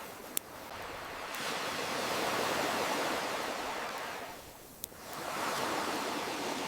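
Ocean waves surging in and drawing back in slow swells, with two sharp pops from a crackling wood campfire, one just after the start and one near five seconds.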